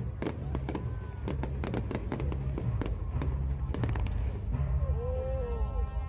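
Fireworks bursting and crackling in a rapid, dense string of bangs over loud music with a heavy bass line. The bangs stop about four seconds in, leaving the music.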